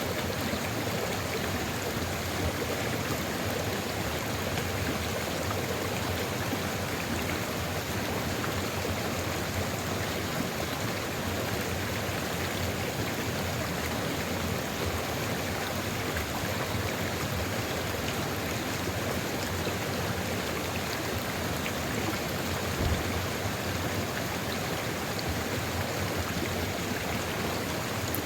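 Steady rush of a flowing stream, an even wash of water noise, with one brief low knock near the end.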